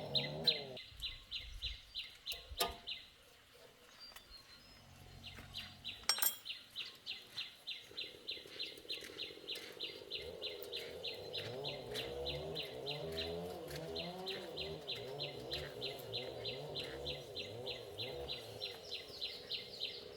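Farmyard animal sounds: an even run of short high chirps, about four a second, with wavering lower calls like hens clucking joining from about eight seconds in, and two sharp clicks early on.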